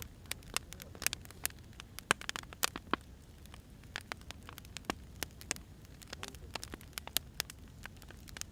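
Firewood burning, crackling and popping: irregular sharp pops, several a second, over a low steady rumble.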